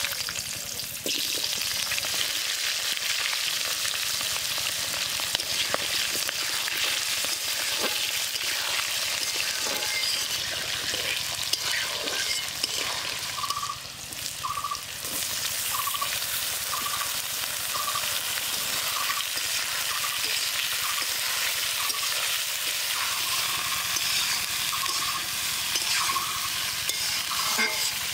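Potato wedges sizzling steadily in hot oil in a metal wok, with the clicks and scrapes of a spatula stirring. About halfway through, brinjal pieces go in, the sizzle drops briefly, then picks up again as the vegetables are stirred.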